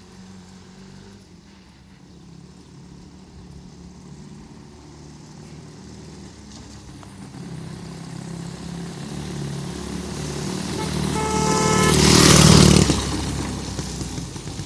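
Homemade Ural trike's Dnepr flat-twin motorcycle engine approaching along the street, growing steadily louder, passing close by about twelve seconds in, then receding.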